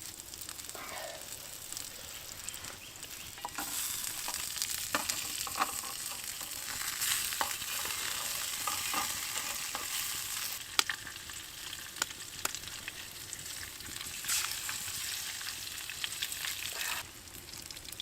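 Scarlet elf cup mushrooms and wild greens frying in a pan: a steady sizzle with sharp clicks of a utensil stirring against the pan. The sizzle grows louder a few seconds in and drops near the end.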